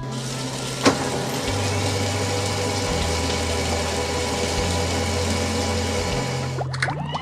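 An engine running steadily over background music, with a sharp click about a second in.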